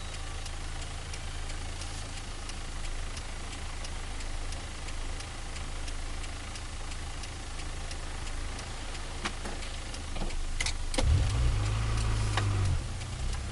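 Turbocharged Nissan Micra engine idling steadily after a cold start, with a faint regular ticking about twice a second. Near the end come a few sharp knocks and a brief louder low surge.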